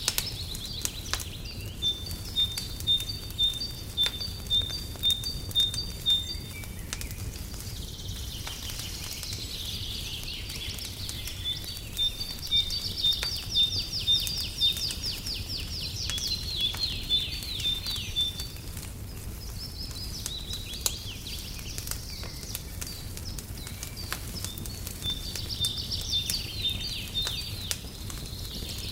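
Songbirds singing in phrases of repeated high chirps, about two notes a second, and faster trills, over the steady crackle and pops of a wood fire in a fireplace.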